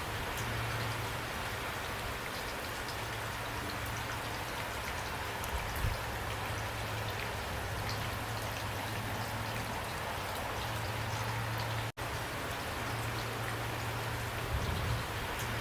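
Steady rain falling, with individual drops ticking through the even hiss. The sound cuts out for an instant about twelve seconds in.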